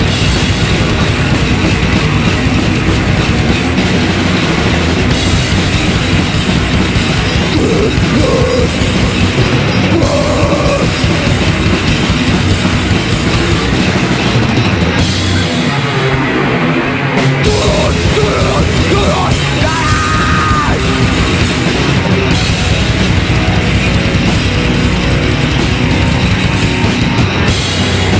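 Live heavy metal band playing at full volume: two distorted electric guitars, bass and a drum kit. The low end drops out for a moment about halfway through, then comes back in.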